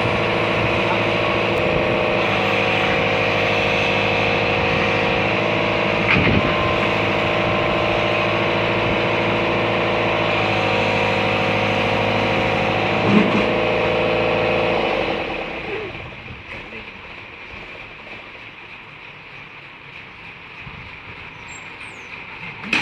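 Backhoe's diesel engine running steadily, its pitch shifting slightly a few times, with two short knocks. About fifteen seconds in the engine sound falls away quickly, leaving only faint background noise.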